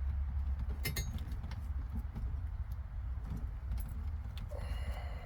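Small clicks and light metallic clinks of wires and tools being handled during car wiring work, with a cluster of clicks about a second in and a short clink near the end, over a steady low hum.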